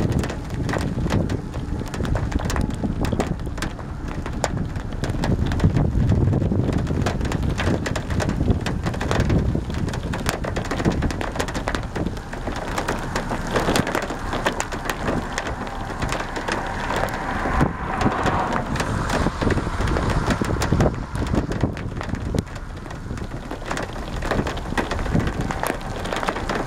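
Rain from a thunderstorm's core arriving and falling steadily, with many sharp drop hits close to the microphone and a heavy low rumble underneath.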